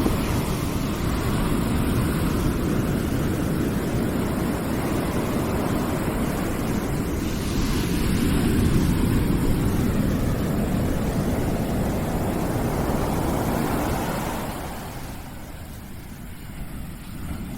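Steady low rushing, rumbling noise with no distinct events, swelling slightly and easing, then dipping quieter for a moment near the end.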